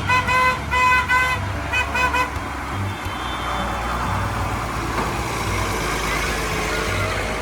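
A vehicle horn tooting a quick run of short beeps, about three or four a second, for the first two seconds or so, then stopping. Underneath, tractor engines run steadily with the low rumble of passing vehicles.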